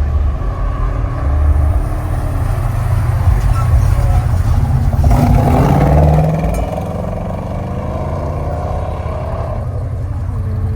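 Car engine rumble, with one car revving up louder about five seconds in, then easing off.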